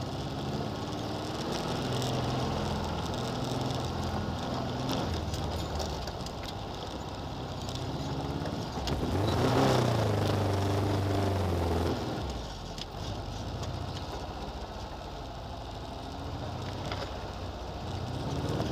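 4x4 engine revving as it drives over a rough dirt track, its pitch rising and falling with the throttle. It is loudest from about nine seconds in, as a second 4x4 comes past close by, and drops off suddenly about three seconds later.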